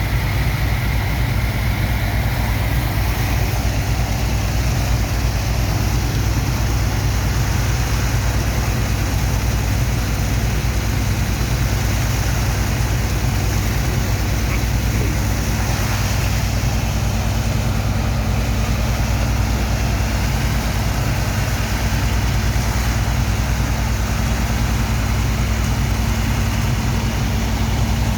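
Heavy engine of a sand dredger's unloading pump running steadily, a deep hum under a constant rushing hiss of water and sand.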